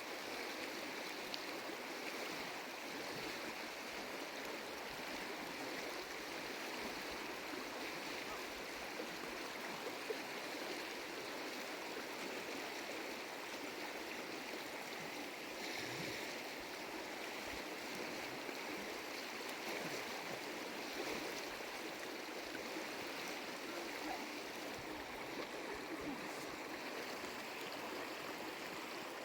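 Stream water flowing, a steady rush without a break.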